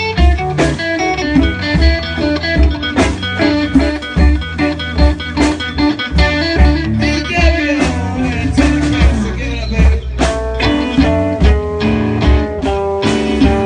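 Live blues band playing an instrumental passage: electric guitar carrying the melody over bass and a steady drum beat.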